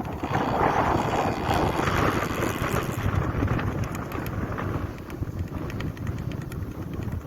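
A motocross dirt bike running, its engine noise growing fainter in the second half, with wind on the microphone.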